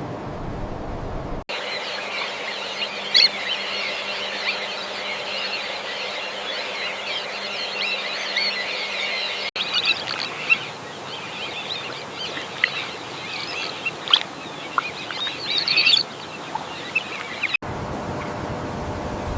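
Many birds chirping and calling at once over a steady background hiss. The sound cuts abruptly twice to a slightly different stretch of the same kind of chorus.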